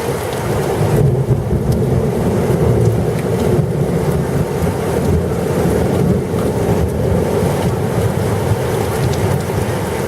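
Thunderstorm: a loud, steady low rumbling roar that swells slightly about a second in.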